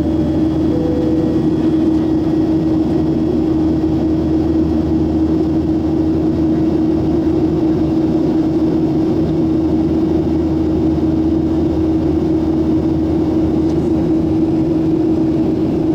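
Boeing 737-700's CFM56 turbofan engines running steadily after takeoff: an even, unchanging drone with a strong steady hum.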